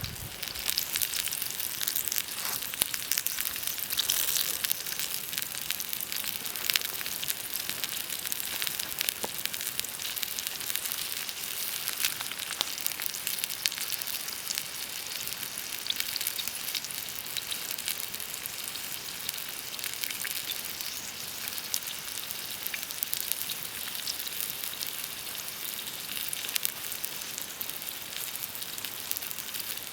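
Food sizzling as it fries in a pan: a steady high hiss scattered with small pops and spits.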